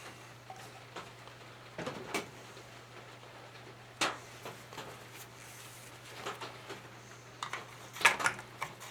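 Scattered light clicks and knocks of hands working on a small engine while topping up its oil and checking the dipstick, a few seconds apart and a short cluster near the end, over a faint steady low hum.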